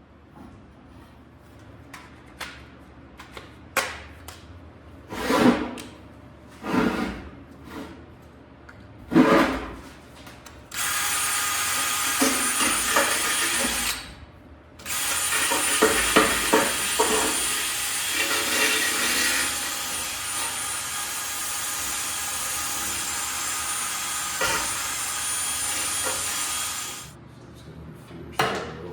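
Several separate knocks and clanks of steel being handled, then a handheld power tool running steadily on steel in two long stretches with a short break between them.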